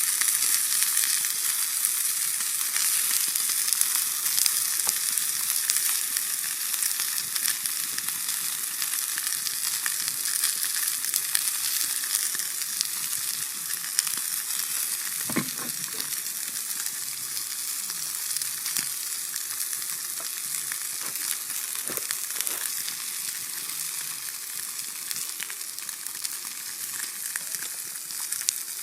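Steak sizzling steadily on an iron griddle over an open fire, the hiss easing slightly over time, with a couple of brief pops about halfway through.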